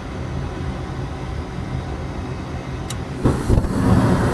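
Gas furnace starting up: a steady low mechanical hum, then about three seconds in a sharp click and a sudden whoosh as the burners light, after which the running sound is louder.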